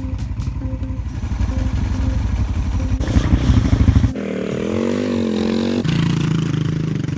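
Single-cylinder dual-sport motorcycle engines running, in a few short cuts: a steady low thumping rumble, then louder and faster pulsing about three seconds in, then a wavering engine note that cuts off abruptly.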